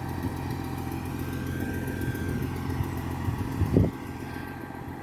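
Vehicle engine running steadily with a low drone. A brief louder sound comes just before four seconds in, after which the engine is a little quieter.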